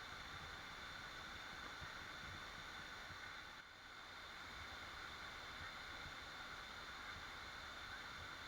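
Waterfall: a steady rush of falling water that dips briefly in level about three and a half seconds in.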